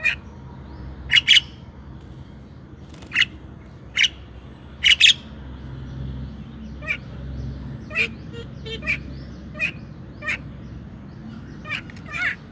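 Birds calling: short, sharp calls every second or so, some in quick pairs, over a steady low background hum.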